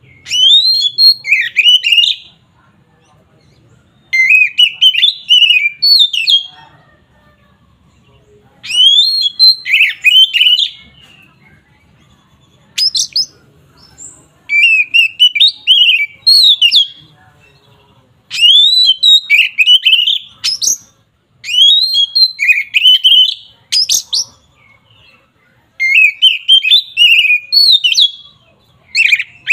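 Oriental magpie-robin (kacer) singing loud, varied whistled phrases that sweep up and down, each lasting a second or two, with short pauses between them. This is the full 'ngeplong' song that kacer keepers play to rouse a rival bird.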